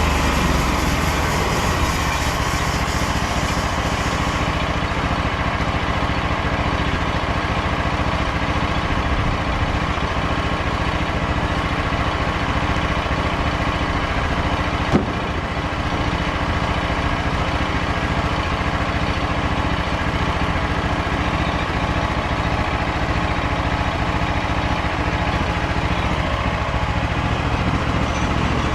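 Petrol engine of a Frontier OS27 portable band sawmill running steadily. A high hiss fades out about four seconds in, and there is one brief knock about halfway through.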